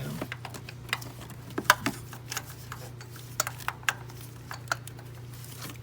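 Irregular sharp metallic clicks and clinks of hand tools and parts being handled during a spark plug change, over a steady low hum.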